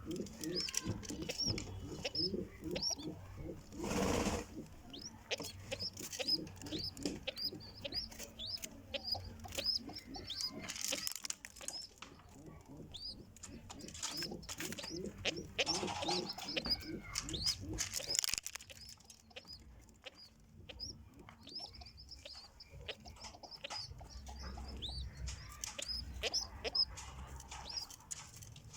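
Pigeons at the nest calling: runs of low, rhythmic calls several times a second mixed with many short, high-pitched peeps. There is a brief rushing flurry about four seconds in.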